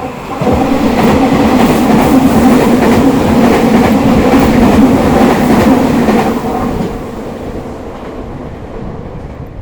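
Meitetsu limited express train (set 1113F) running through a station without stopping. It makes a loud rolling rumble with repeated wheel clicks over rail joints for about six seconds, then fades as it moves away.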